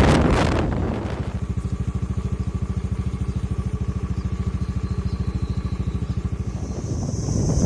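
A small engine idling with a fast, even pulse. Wind noise on the microphone fades about a second in and comes back near the end.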